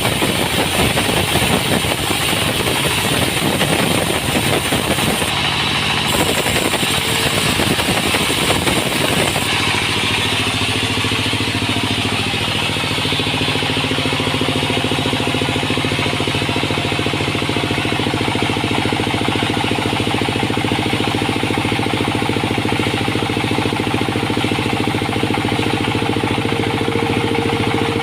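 Sawmill machinery engine running continuously. About nine seconds in, the rough, noisy sound gives way to a steadier hum with a held tone.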